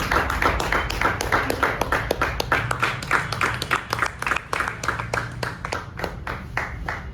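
A small group of people clapping, many quick claps a second; the clapping stops abruptly at the end.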